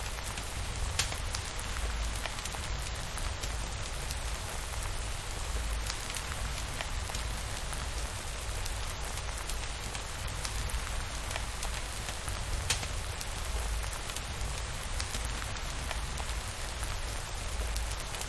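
Steady rain, an even hiss over a low rumble, with a few sharp clicks scattered through it.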